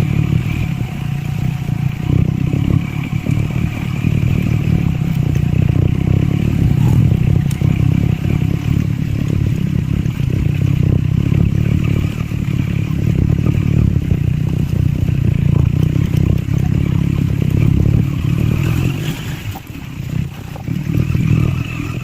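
Triumph Scrambler 400 X's single-cylinder engine and exhaust running under load while riding off-road, a steady beat with a brief dip in loudness near the end.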